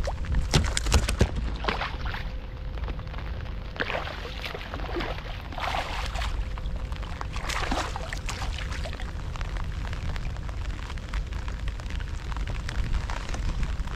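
Heavy rain pattering, with many close, sharp drop taps over a constant low rumble.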